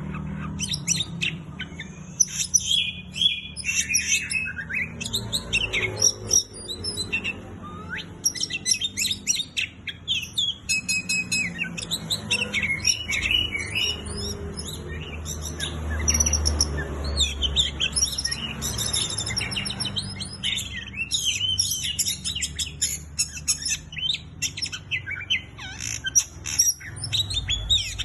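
Oriental magpie-robin (kacer) singing nonstop, a rapid, varied stream of whistles and chirps.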